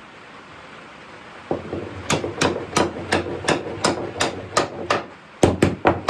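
Hammer blows, a steady run of about three strikes a second, then after a short pause a quicker group of strikes near the end.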